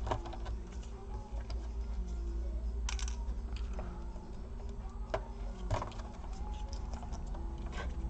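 Scattered small clicks and taps of a laptop's internal parts being handled and unplugged, as a modem card and a USB board connector are removed, over a steady low hum.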